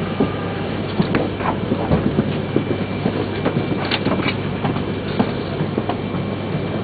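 Steady low hum of a Shinkansen train standing at the platform before departure, its onboard equipment running, with scattered light clicks and knocks.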